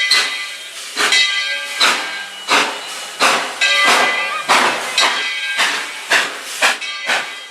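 Steam locomotive chuffing, about two exhaust beats a second, with steam hissing between the beats.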